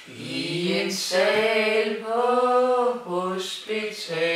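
Unaccompanied singing: one voice holding several long, steady notes with short breaks between them.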